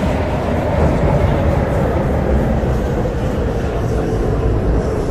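MTR Tseung Kwan O line C-Train running on the line, a steady rumble and rush of wheels and motors with a hum that slowly falls in pitch as the train slows towards a station.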